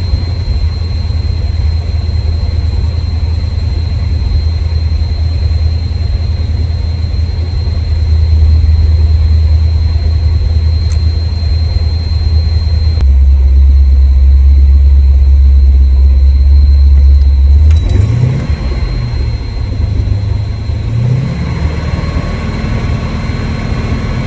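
Car engine idling with a deep, steady rumble, then revved briefly twice near the end, the pitch rising and falling each time.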